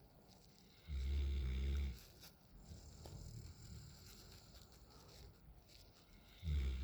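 Nine-month-old Alaskan Malamute puppy snoring in its sleep. Two snores come about five and a half seconds apart, the first about a second in and the next starting near the end, each lasting about a second, with quieter breathing between them.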